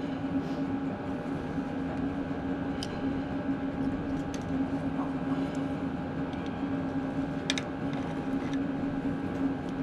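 Steady hum of a small motor running, with a few sharp metallic clicks.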